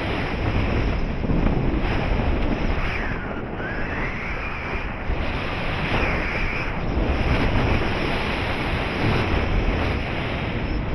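Steady rush of air buffeting the microphone in flight under a paraglider, with a couple of faint whistling glides partway through.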